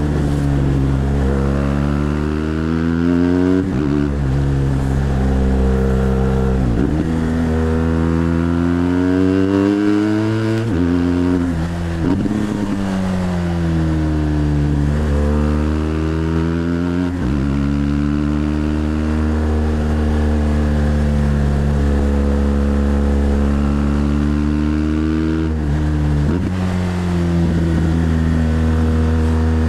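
BMW GS Adventure LC's liquid-cooled boxer-twin engine under way. Its pitch climbs as it pulls and sinks as it eases off, with short breaks for gear changes about six times.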